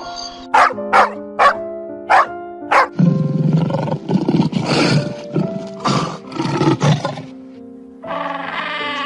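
An animal call over light background music: five short, sharp calls in quick succession, then a long, rough roar lasting about four seconds.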